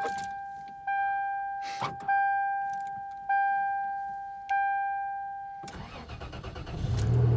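The dashboard warning chime of a 1998 Toyota Tacoma dings four times, evenly spaced. About six seconds in, the starter cranks the 3.4 L V6. Near the end the engine catches and settles into a steady idle: a cold start after about six months sitting.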